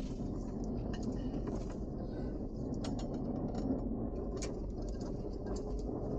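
2006 Toyota Highlander 4WD being driven hard, a steady low rumble of engine and road noise with scattered sharp ticks and rattles.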